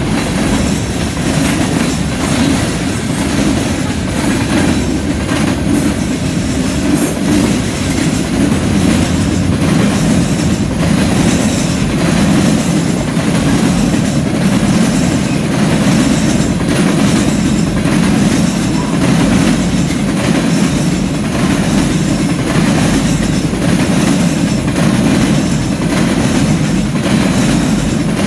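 Freight train cars rolling past: a boxcar, then empty centerbeam flatcars. A steady rumble of steel wheels on rail, with a repeated clickety-clack of wheels passing over rail joints.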